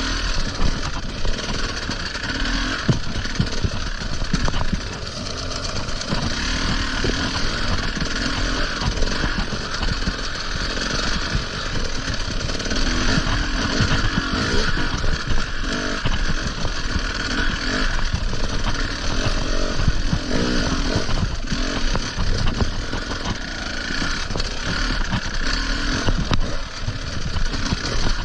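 Enduro motorcycle engine running while ridden off-road, its revs rising and falling without a break, with many short knocks mixed in.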